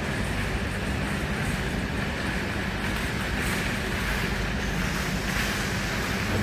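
Great Western Railway passenger train running, a steady rumble of wheels on rails with a low hum.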